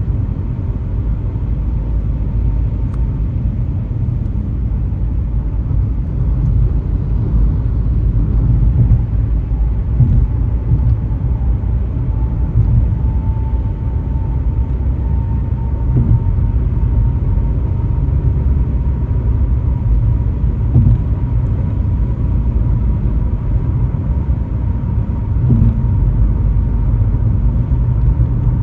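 Car driving along a highway: a steady low rumble of road and engine noise, with a few faint knocks scattered through it.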